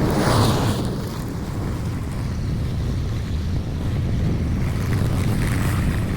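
Gasoline lawn mower engine running steadily.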